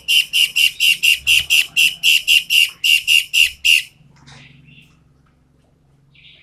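Toed matahari songbird singing a rapid run of loud, sharp, high notes repeated about five times a second. The run stops abruptly about four seconds in, and a single short note follows near the end.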